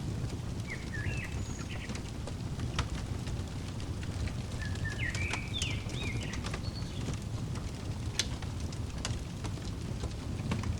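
Crackling wood fire: a steady low rumble of flames with scattered sharp pops and crackles. A small bird sings short chirping phrases about a second in and again around the middle.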